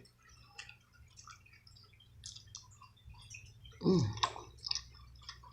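Close-miked chewing of a sushi roll, with small wet mouth clicks and squishes. A short voiced hum with falling pitch comes about four seconds in.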